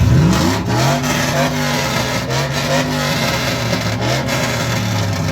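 Car engine revving. It climbs sharply at the start, then is held high and blipped up and down several times.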